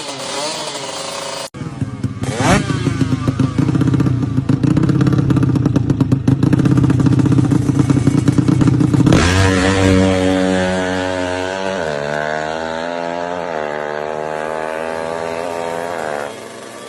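Drag-racing motorcycle with a DOS Muffler exhaust, its engine screaming at high revs with a rapid, rough crackle, then about nine seconds in switching to repeated revs rising and falling in pitch.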